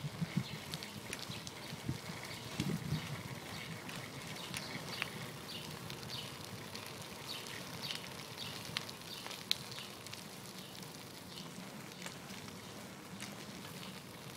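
Ride noise from a moving bicycle: a steady hiss with scattered irregular clicks and rattles.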